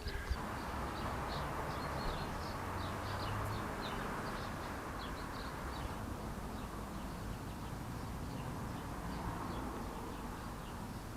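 Outdoor ambience: small birds chirping repeatedly, short high calls over a steady low background hum.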